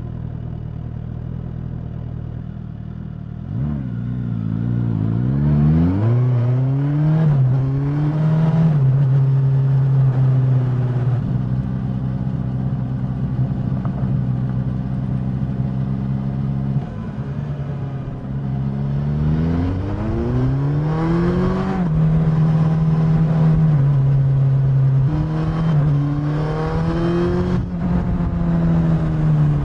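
Suzuki GSX-S1000's inline-four engine and exhaust, heard from the rider's seat. It runs at a steady low note, then about three and a half seconds in pulls away, revving up through gear changes to a steady cruise. It drops back about two-thirds of the way through and accelerates again through more rising gear changes.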